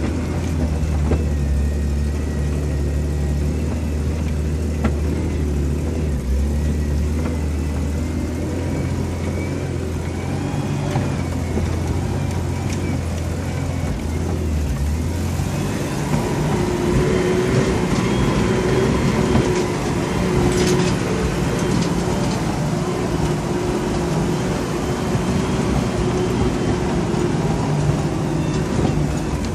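Vehicle engine pulling steadily up a rough dirt track, heard from inside the cabin. About halfway through, the engine note changes and the rattling and road noise grow.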